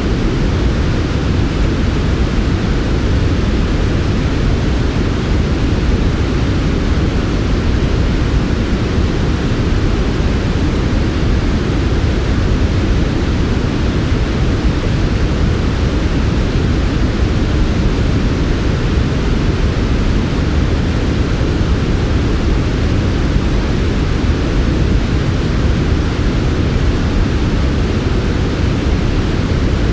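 Steady, smooth white noise softened toward the low end: a deep, even rush with a lighter hiss above it, with no breaks or changes.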